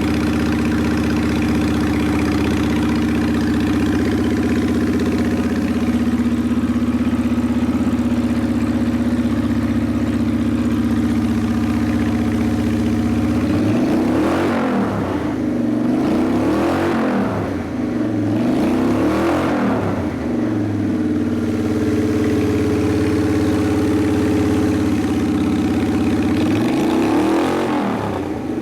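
2005 Honda VT750 DC's liquid-cooled V-twin engine idling steadily, then revved three times about halfway through, each rev rising and falling back to idle, with another rev near the end.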